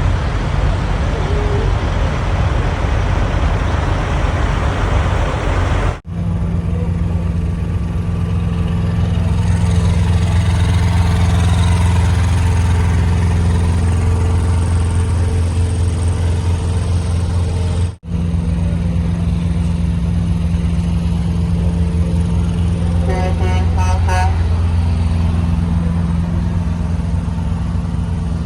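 Big-rig diesel engine running with a steady low rumble, after a few seconds of rushing noise. Sharp cuts about a third and two thirds of the way through. Near the end a horn sounds briefly in a few short toots.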